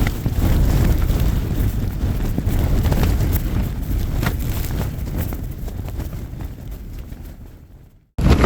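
Strong wind buffeting the microphone in a heavy low rumble, with scattered irregular clicks. It fades away over the last few seconds and cuts off just before the end.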